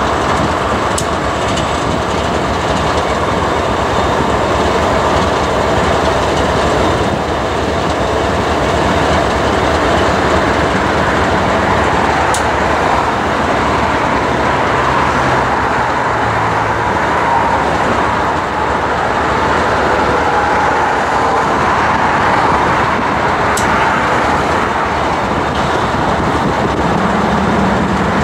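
Freight train rolling past: a steady rumble of steel wheels on rail. A low steady hum comes in near the end.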